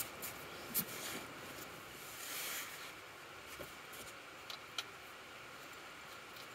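Old engine oil draining from a Volvo D5's sump into a drain pan, a faint steady trickle, with a few light clicks and a short hiss about two seconds in.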